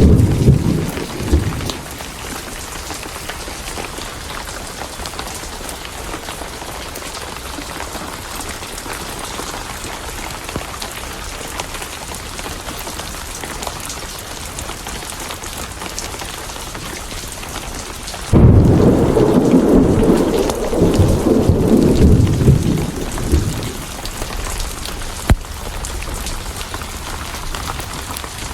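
Steady rain with thunder. A rumble dies away in the first couple of seconds, then a sudden loud thunderclap about two-thirds of the way through rumbles on for about five seconds. A single sharp crack comes near the end.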